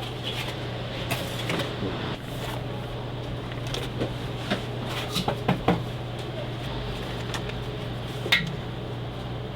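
Steady low hum with scattered short clicks and light knocks, a cluster of them around the middle and one sharper knock near the end.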